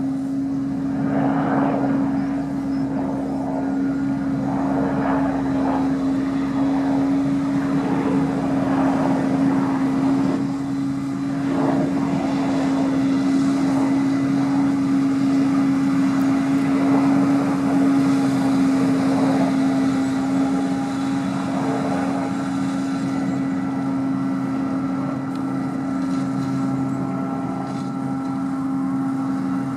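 Heavy farm machinery running steadily at a maize harvest: a continuous drone with one strong hum.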